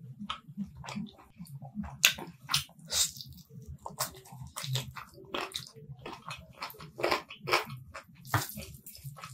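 Wet chewing and lip-smacking of a mouthful of rice and chicken curry eaten by hand, with irregular sticky clicks and squelches. Near the end comes the squish of fingers mixing rice into gravy on the plate.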